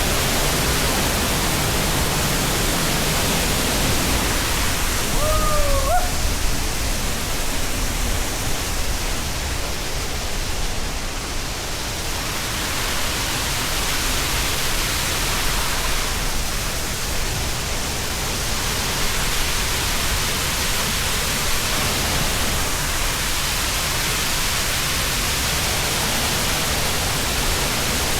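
Waterfall's rushing water, a steady loud roar spread evenly from low to high pitch. A short pitched call, dipping then rising, cuts through it about five seconds in.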